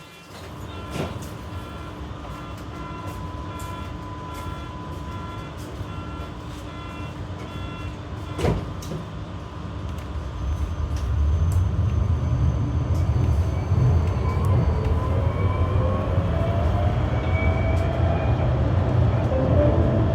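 Berlin GTZO low-floor tram: a beep pattern repeats evenly for about nine seconds, and a sharp knock comes near the end of it. Then the tram pulls away, its traction motor whine rising in pitch and the low rolling rumble growing louder.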